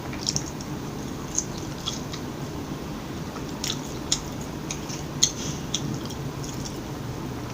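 Close-miked chewing and mouth sounds of someone eating McDonald's fast food: scattered soft clicks and smacks over a low steady background.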